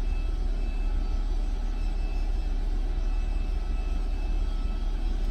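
Steady low rumble with no breaks, like vehicle or cabin noise.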